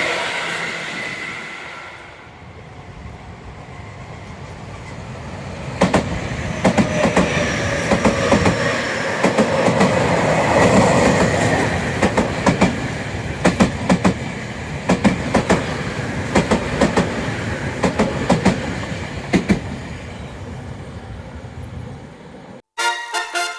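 Tobu Tojo Line electric train passing, with a steady rumble and the repeated clacking of its wheels over rail joints as the cars go by. Near the end the train sound cuts off abruptly and music begins.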